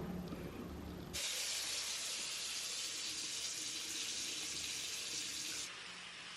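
Water running from a tap, an even hiss that starts abruptly about a second in and drops to a quieter flow near the end.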